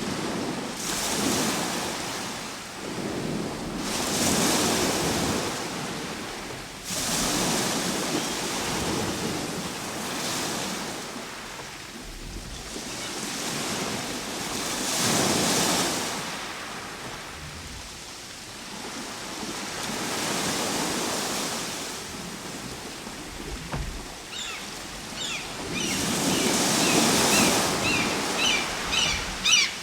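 Ocean surf breaking and washing up the shore, the hiss of each wave swelling and fading every few seconds. Near the end, short high chirps or clicks come in over the wash.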